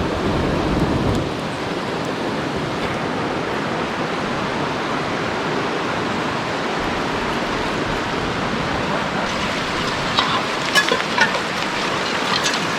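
Steady rushing of water, with a few light clicks about ten seconds in.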